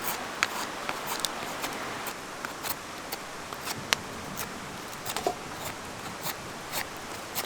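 Steady rush of a mountain stream, with scattered sharp clicks and ticks at irregular moments.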